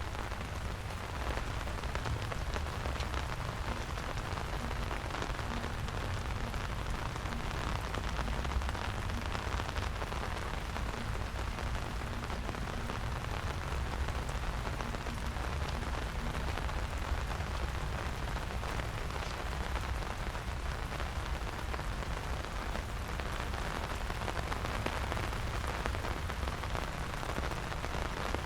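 Steady rain falling on the ground and nearby surfaces: a dense, even patter of drops with a low rumble underneath.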